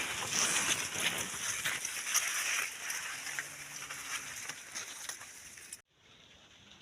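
Maize leaves and stalks rustling and crackling as someone walks through a maize field, thinning out after about three seconds, with a faint low drone around the same time. The sound cuts off abruptly near the end.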